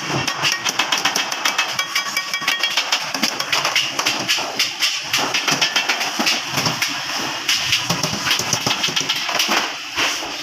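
Hand hammer striking stainless steel sheet in rapid blows, several a second, each blow ringing with a high metallic tone.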